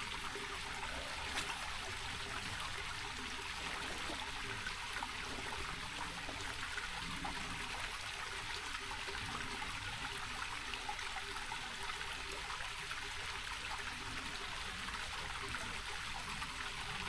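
Small mountain stream trickling steadily over rocks. There is a single click about a second and a half in.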